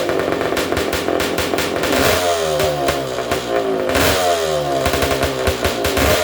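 Honda ATC 250R's single-cylinder two-stroke engine revved in repeated throttle blips about every two seconds, the revs falling away after each one, with a ragged crackling exhaust note through its just-repaired silencer. It is really loud.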